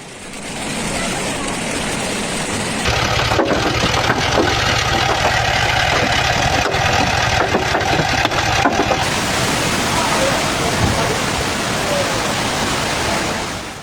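Heavy rain falling in a steady rushing hiss. The sound shifts abruptly about three seconds in and again around nine seconds, with scattered sharp ticks in the middle stretch.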